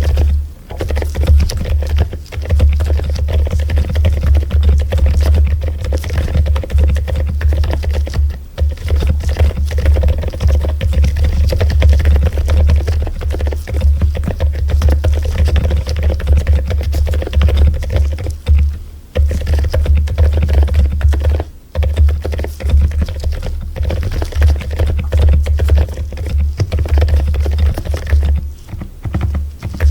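Mechanical keyboard typing continuously, a fast, dense run of key clicks with only brief pauses, over background music with a steady bass.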